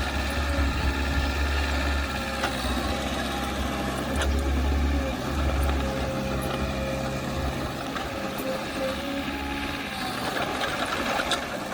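Diesel engine of heavy earthmoving machinery running, its low drone swelling and easing several times, with a few sharp clanks.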